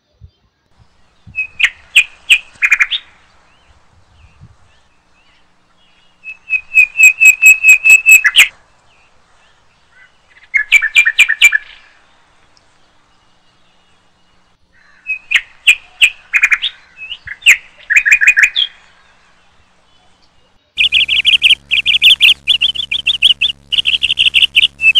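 A small bird chirping in bouts of quick repeated high notes, separated by pauses of a few seconds. Near the end a denser, continuous run of chirps starts, with a steady low hum under it.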